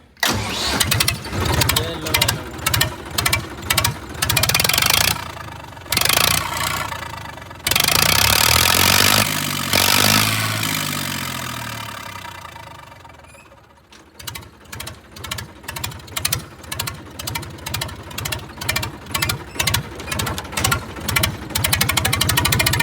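Massey Ferguson 1035 DI three-cylinder diesel tractor engine with its silencer removed, started and run on a bare exhaust pipe, very loud. It goes in uneven beats at first, swells and then dies away in the middle, then picks up into a fast, even run of exhaust beats.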